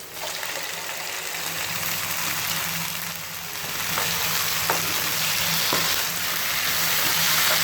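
Chopped tomato and onions frying in hot oil in a pan, with a steady sizzle that picks up just after the start as they are stirred. Three faint clicks of the spoon against the pan come in the second half.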